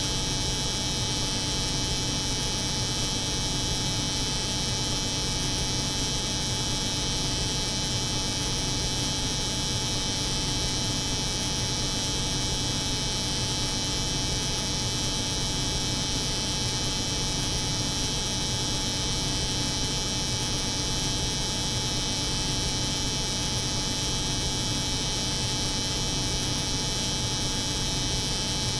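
Electric hair clipper running steadily, layered over the constant hum of a cold-room refrigeration unit. The result is an unbroken drone with a bright hiss on top.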